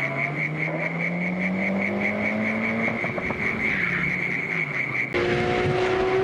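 Rally car engine accelerating at full throttle, its note climbing steadily, then dropping at a gear change about three seconds in and climbing again. About five seconds in, the sound cuts abruptly to another car's engine running at a higher, steady pitch.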